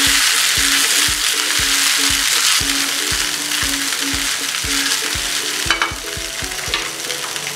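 Poha with potatoes frying in a pan, sizzling steadily while a spatula stirs and turns it, with a couple of sharp clicks near the end. Background music with a steady beat plays underneath.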